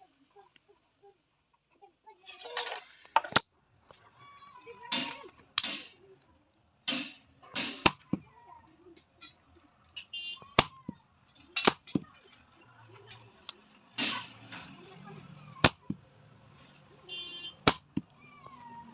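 Metal being worked by hand: about a dozen irregular sharp metallic strikes, each with a short high ring, mixed with brief rasping strokes.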